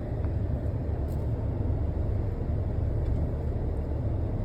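Steady low rumble of a car being driven, heard from inside the cabin: engine and road noise with no sudden events.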